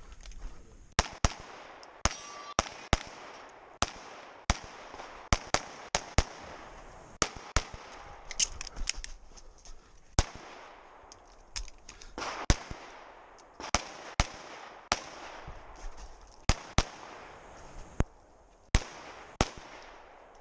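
Pistol shots fired through a practical-shooting stage, starting about a second in, often in quick pairs, with short pauses between strings.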